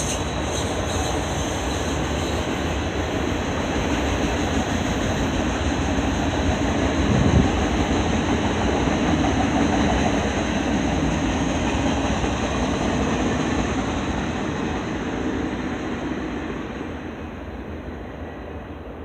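Freight cars of a mixed freight train rolling past: a steady rumble and rattle of steel wheels on rail, with a thin high squeal that fades out over the first half and a single clunk about seven seconds in. The sound dies away over the last few seconds as the train moves off.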